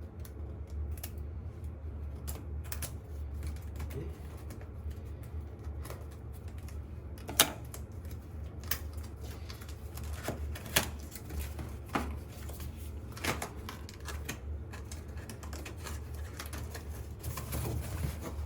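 Cardboard box being opened and handled: scattered light clicks and taps, with a sharper knock about seven seconds in, over a steady low hum.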